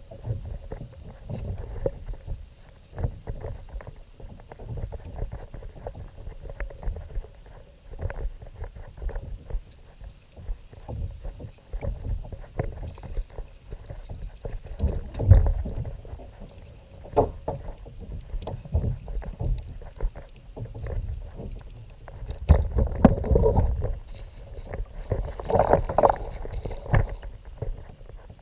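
Kayak on the water: low, irregular thumps and knocks with water sloshing against the hull, from paddling and movement in the boat, and a few louder knocks in the second half.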